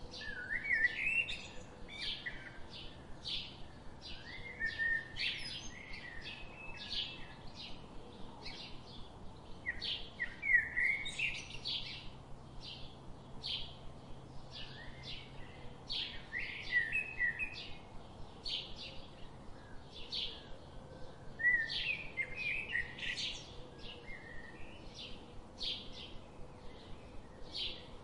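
Birds chirping and singing: short high chirps repeat about twice a second throughout, with a burst of warbling song every five or six seconds.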